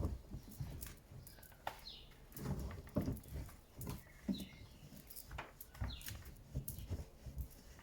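Bosch iDos Serie 6 WAT286V0 washing machine early in a 90 °C boil wash. The drum turns the load, giving irregular clicks, knocks and soft thumps with a few short squeaky tones.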